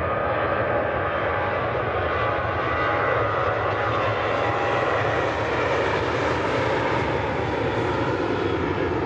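Jet airliner engines running loud and steady as the aircraft passes, a dense rush with a faint whine of engine tones; near the end one tone slowly drops in pitch.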